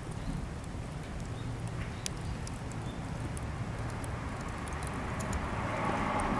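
Cedar offcuts burning in a campfire, crackling with scattered sharp pops over a low steady rumble. A rushing sound swells near the end.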